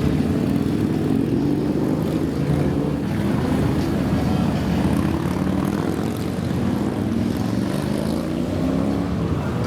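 Many motorcycle engines running together as a column of riders moves off, several engine notes overlapping and rising and falling as they rev and pass.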